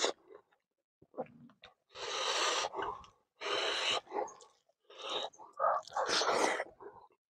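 Close-miked chewing and mouth sounds of a man eating smoked pork, kidney beans and rice by hand, with several loud breaths.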